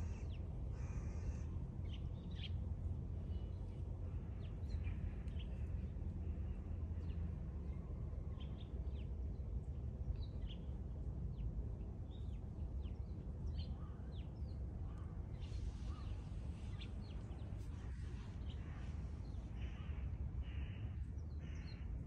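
Birds calling now and then, short chirps scattered through, over a steady low rumble.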